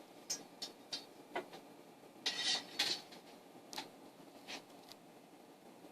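Light scattered clicks and taps of a square and pencil being handled on aluminum stock, with one short scratching stroke about two and a half seconds in, the loudest sound.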